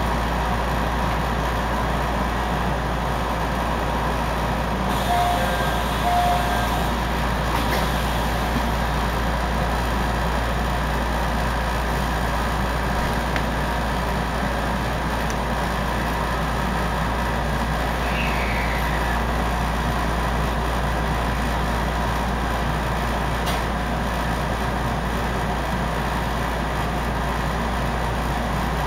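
Steady hum and running noise inside an electric commuter train car standing at a station platform. Two brief short tones come about five to seven seconds in.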